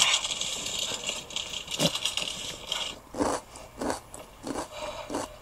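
Close-miked chewing of crunchy pickled rakkyo (pickled shallots): crisp crackling bites, then a steady run of crunchy chews about every half second in the second half.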